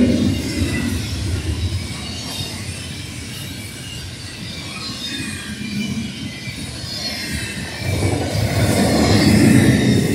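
Double-stack container freight train passing close at speed: a steady rumble of steel wheels on rail with a thin, wavering high squeal from the wheels above it. The rumble grows louder about eight seconds in.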